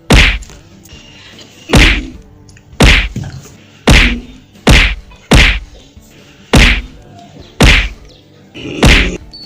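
A series of nine loud whacking blows, roughly one a second, as of someone being beaten.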